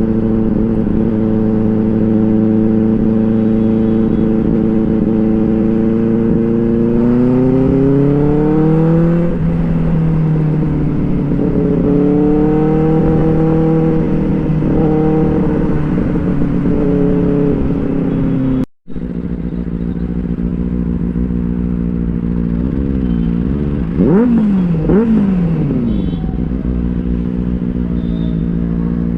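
Inline-four sport motorcycle engine under way, holding a steady note, then climbing in pitch about eight seconds in as the bike accelerates. The sound drops out for an instant near the middle, and near the end the revs rise and fall quickly a few times.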